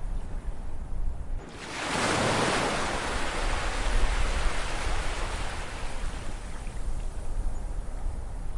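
Ocean waves over a steady low rumble of surf: a wave breaks about a second and a half in, its rushing hiss swelling quickly and then slowly washing out over several seconds.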